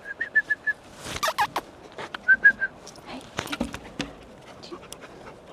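A bird calling in quick runs of short, same-pitched notes, a handful at a time, twice. Scattered clicks and scuffs run alongside.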